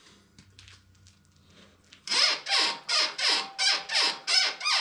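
Rear suspension of a Royal Enfield Himalayan squeaking over and over as it is worked up and down: about eight loud squeaks starting some two seconds in, roughly two and a half a second, each falling in pitch. The owner first suspected the dogbone links but traced the squeak to a dry swingarm pivot shaft.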